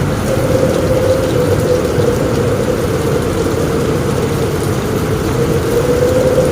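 Heavy rain drumming on a roof, a steady low rushing, with a faint hum that wavers slightly in pitch.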